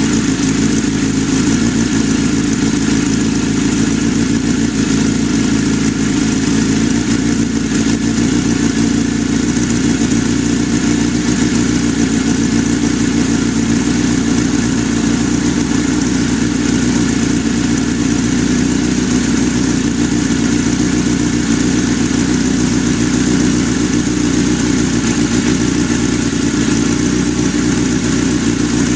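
1983 Suzuki GS1100E's air-cooled inline-four idling steadily, still warming up from a cold start.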